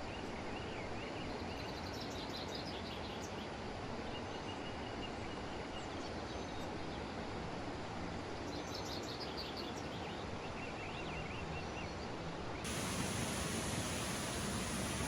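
Steady rush of a waterfall, with birds chirping now and then over it. About two-thirds of the way in, the water noise suddenly becomes louder and brighter.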